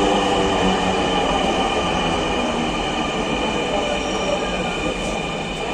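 Electric metro train running on its rails: a steady rush of wheel and track noise with several high steady tones over it, slowly getting quieter.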